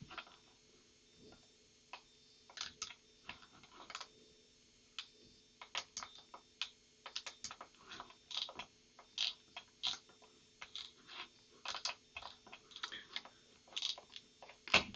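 Irregular light clicks and ticks from a computer mouse and its scroll wheel being worked while browsing, some in quick clusters, over a faint steady hum.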